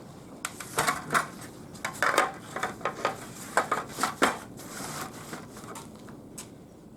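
Light metal pieces clinking and clattering against each other: a quick series of sharp knocks over about four seconds, then it stops.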